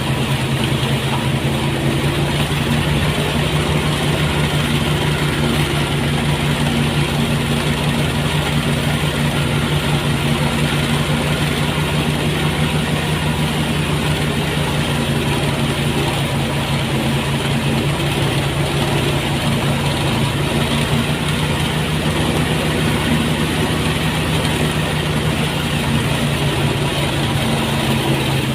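Engine-driven rice threshing machine running steadily, a constant motor hum with no change in speed.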